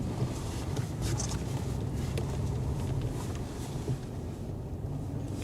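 Steady low rumble of a vehicle's engine and tyres heard from inside the cabin while driving.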